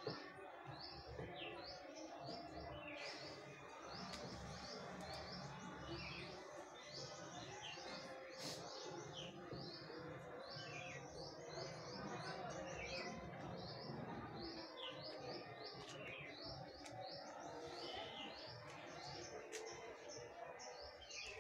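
Small birds chirping: a continuous string of short, quick high chirps repeating over a faint background hum.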